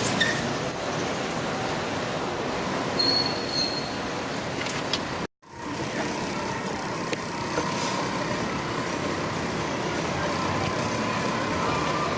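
Steady street traffic noise, a continuous roadway din, broken by a sudden moment of silence about five seconds in.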